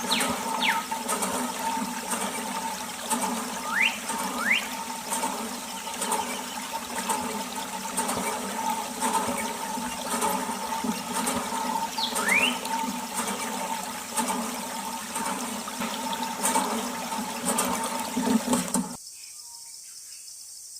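Water running and splashing from a miniature DIY water pump setup, over a steady hum, with a few short sliding squeaks. It cuts off abruptly near the end.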